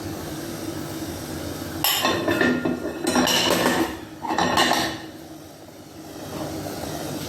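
Kitchen pots, dishes and utensils clattering in three loud bursts with some metallic ringing, over a steady low hum.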